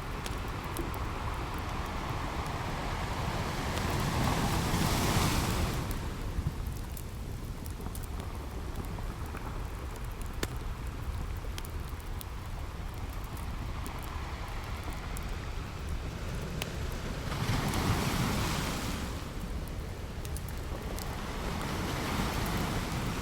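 Ocean waves washing onto a beach, two of them swelling louder about five seconds in and again near eighteen seconds, with a campfire crackling faintly.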